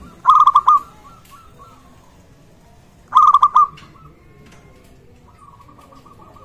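Zebra dove (perkutut) cooing: two loud, rapid rolling coo phrases about three seconds apart, then a fainter, longer trilled coo near the end.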